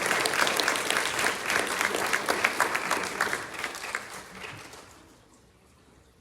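Congregation applauding, many hands clapping, fading away about four seconds in.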